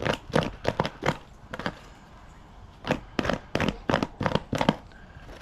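A comb raking through the feathers of a dried, borax-cured chicken hide. It makes quick scratchy strokes, about three a second, in two runs with a pause of about a second and a half between them.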